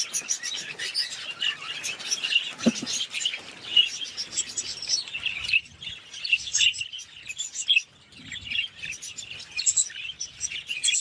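Budgerigars chattering, a dense run of quick high chirps and warbles.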